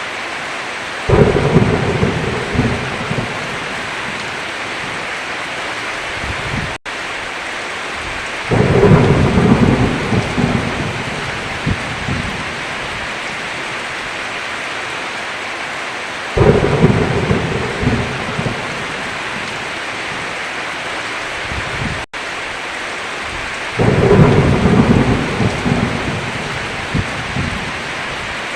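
Steady heavy rain with thunder rumbling four times, each rumble lasting two to three seconds, at even gaps of about seven and a half seconds. The rain cuts out for an instant twice.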